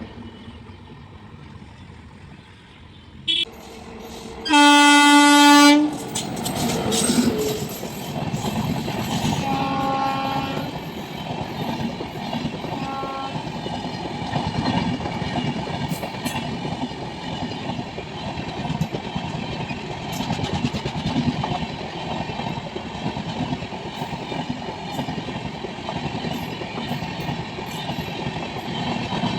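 Passenger train's locomotive horn sounding one long, loud blast about five seconds in, then the train passing with a steady rumble and wheel clatter, with two shorter, fainter horn notes at about ten and thirteen seconds in.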